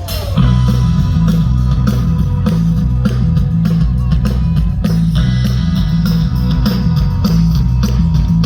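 Live rock band playing, with electric guitar, bass and a drum kit keeping a steady beat; the full band comes in sharply about half a second in.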